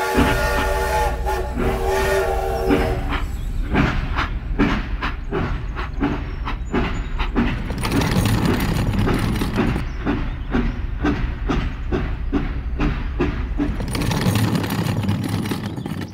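A train horn sounds for about the first three seconds. Then comes a steady clickety-clack of train wheels over rail joints, about two to three clacks a second, over a low rumble: a train passing.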